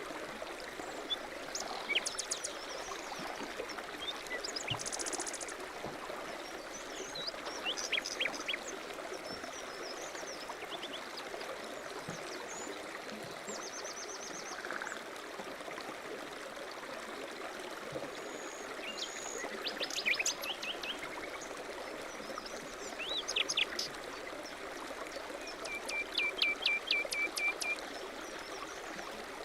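A mountain stream runs with a steady rush of water while small birds chirp and call now and then above it. Near the end one bird gives a quick run of repeated notes.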